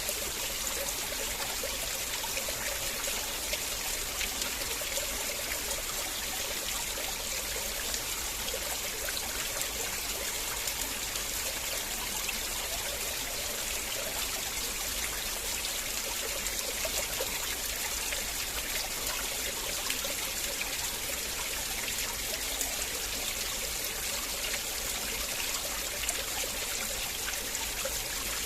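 River water flowing and trickling over stones in a steady, even rush with fine splashing detail.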